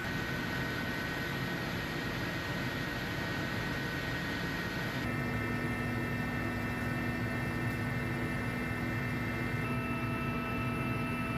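Steady drone of an aircraft's engines, a noisy roar with a few steady tones. The tones change abruptly about five seconds in and again near the end, as from one shot of aircraft noise to another.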